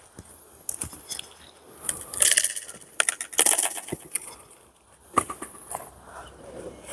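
Wooden knocks and clatter of split pine firewood pieces, in clusters about two and three and a half seconds in, with single sharper knocks after; the recording carries a strong echo.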